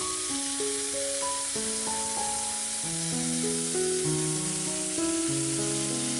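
Background music, a melody of held notes stepping up and down, over the steady sizzle of green onion frying in hot cooking oil in a pan.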